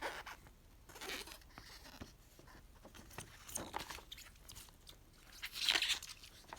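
Rustling and crinkling of a plastic model kit's paper and plastic packaging as its contents are handled, in soft scattered strokes with a louder crinkle near the end.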